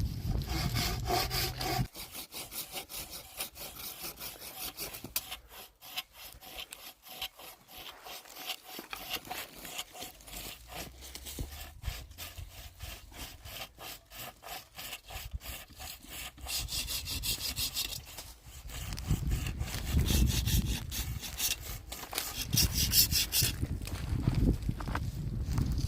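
Hand saw cutting wood in steady, rhythmic back-and-forth strokes.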